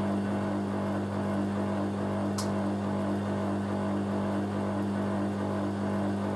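Hoover A3060 Electronic 1100 washing machine's drain pump humming steadily as it pumps water out ahead of the spin. A light click sounds about two and a half seconds in.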